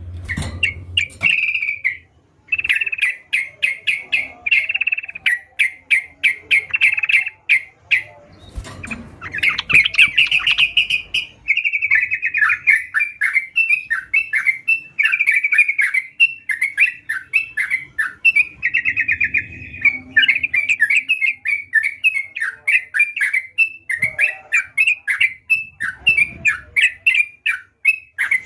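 Yellow-vented bulbul (trucukan) singing continuously: fast runs of chattering, bubbling notes repeated many times a second, with two short breaks.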